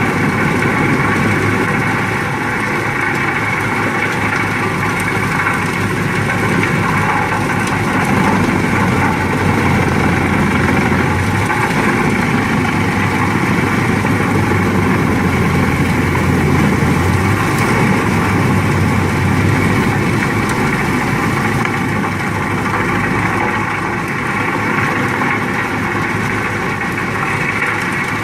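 Wood chipper running steadily: loud, continuous engine and machine noise with no distinct strikes or pauses.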